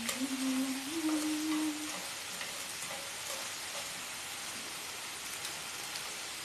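Pork belly frying in a nonstick pan, a steady sizzle. A short hummed tone, stepping up once in pitch, sits over it in the first two seconds.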